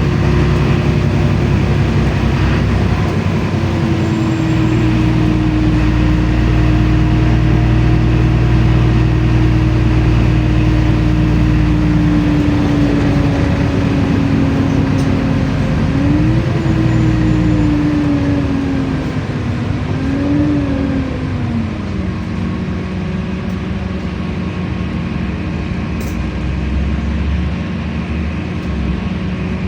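LiAZ-5292 city bus heard from inside the cabin while it drives: a steady low engine hum with a drivetrain whine on top. The whine slowly falls in pitch, rises and falls twice, then drops and levels off lower a little past the middle, as the overall sound gets slightly quieter.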